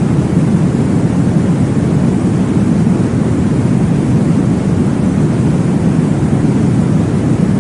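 Steady, deep rushing noise from a baby-sleep white-noise track, an even whoosh with no breaks or changes.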